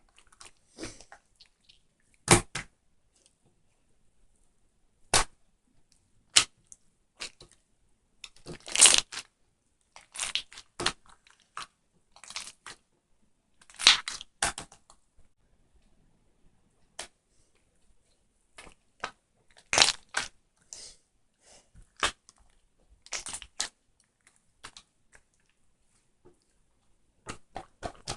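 Irregular sharp crunches and cracks, some single and some in quick clusters, with quiet gaps of a second or more between them; the loudest clusters come about 9, 14 and 20 seconds in.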